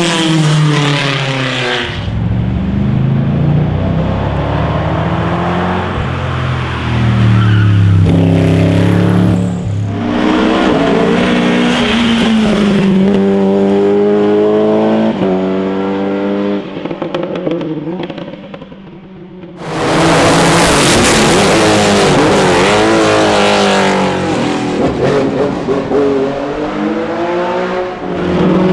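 Classic racing car engines at full throttle on a hillclimb, the note climbing through the gears with a short drop at each shift and falling away when the throttle lifts. The sound changes abruptly about two seconds in and again near twenty seconds, where it dips briefly before a loud, rasping run.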